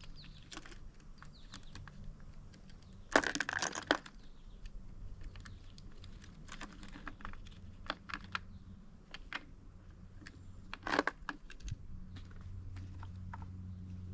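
Metal fence hardware being handled: scattered clinks and rattles, with louder clatters about three seconds in and again about eleven seconds in, over a low steady hum.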